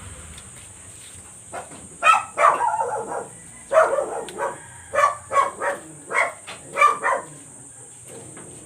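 A dog barking in a quick series of about a dozen sharp barks, starting about a second and a half in and stopping near the end.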